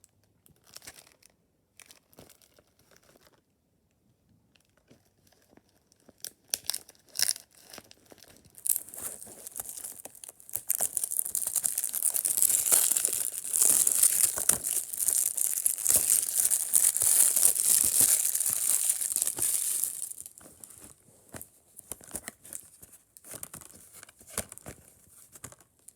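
Plastic shrink wrap being torn and peeled off a 4K Ultra HD Blu-ray case: scattered crinkles and clicks, then about eleven seconds of continuous tearing and crinkling starting about nine seconds in, then more scattered clicks of handling.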